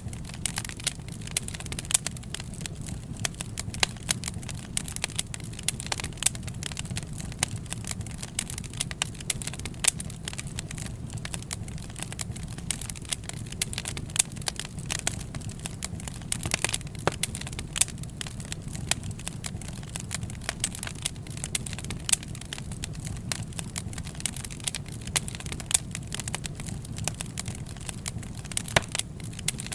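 Wood fire burning, with frequent irregular crackles and sharp pops over a low steady rumble.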